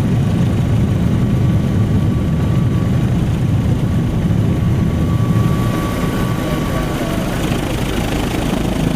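Helicopter running: a steady, loud low rumble with a faint high whine over it, easing slightly about six seconds in.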